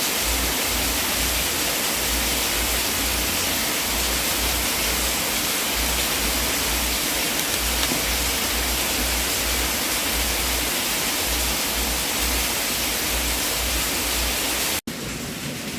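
Wood fire burning in a fireplace: a steady hiss over a low, uneven rumble, with only a few faint crackles. Near the end the sound drops out for an instant and resumes a little quieter.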